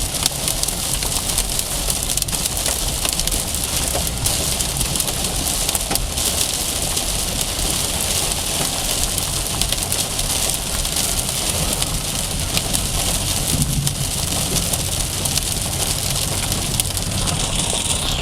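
Heavy storm rain pelting the car's roof and windshield in a dense, steady patter of fine ticks, over the low rumble of the car.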